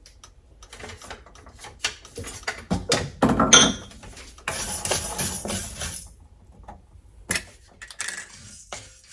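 Whole spices (cumin, coriander and mustard seeds, black peppercorns) being dry-roasted and stirred in a pan: a spoon scraping and seeds rattling against the metal in irregular clicks, with a louder clatter midway.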